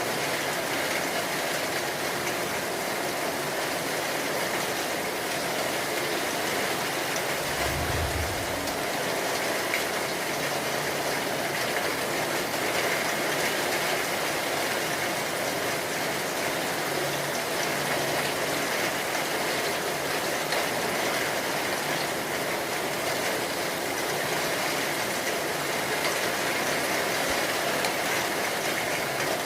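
Steady, heavy rain falling, an even hiss with no break. About a quarter of the way in, a brief low rumble rises under it for a second or so.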